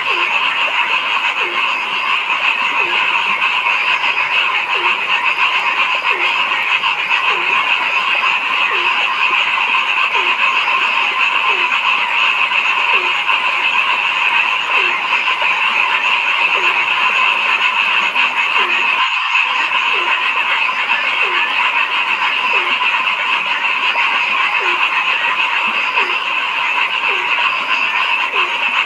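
A dense, steady night chorus of frogs, with one lower-pitched frog croaking about once a second over it. There is a brief glitch in the sound about two-thirds of the way through.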